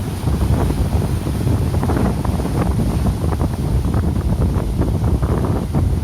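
Strong wind buffeting the microphone in constant gusts, over the noise of heavy surf from a rough sea ahead of a typhoon.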